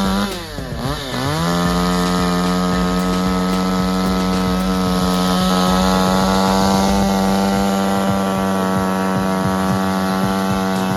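Chainsaw engine running at high revs; about half a second in it briefly drops in pitch and revs back up, then holds a steady high pitch.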